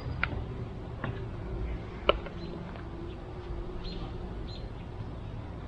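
Honeybees humming around an opened hive, with a few sharp knocks and clicks from the hive boxes and frames being handled; the loudest knock comes about two seconds in. Faint bird chirps a little later.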